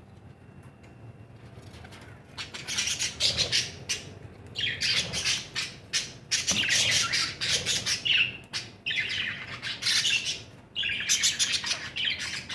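Parrots calling in loud, harsh, rapid bursts, starting about two seconds in, with short pauses between bursts.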